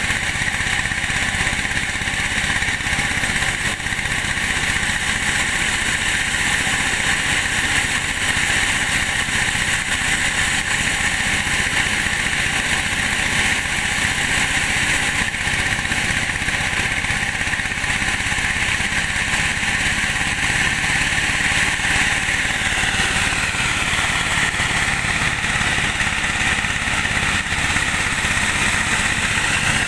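Engine-driven corn sheller running steadily, threshing unhusked corn, with a small change in its sound a little over two-thirds of the way through.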